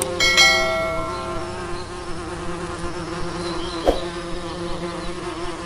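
Bees buzzing in a steady drone. A brief ringing tone sounds near the start and fades within about a second.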